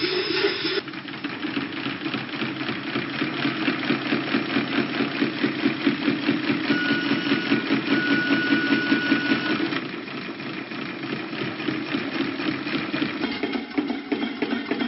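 Boat engine running with a rapid, even pulse. The sound changes abruptly about a second in and again about ten seconds in, and a thin steady high tone sounds for a few seconds in the middle.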